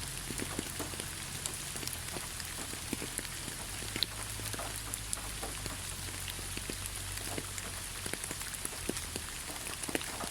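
Steady rain falling in a forest, with many separate drops pattering and dripping on leaves and surfaces close by.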